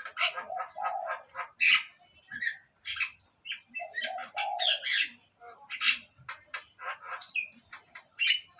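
Small songbirds chirping and calling in quick, dense runs of short, sharp notes, with a few lower, harsher calls now and then.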